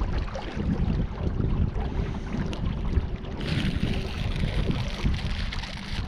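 Wind buffeting the microphone on open water, a gusty low rumble. A steady hiss comes in about halfway through.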